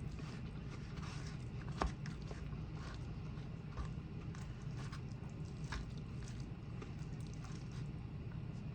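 Close-miked eating sounds: chewing with scattered sharp clicks, the loudest about two seconds in, over a steady low hum.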